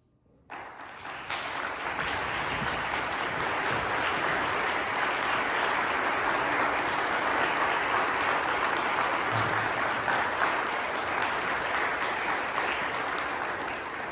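Audience applauding. The applause starts suddenly about half a second in, holds steady and dies away near the end.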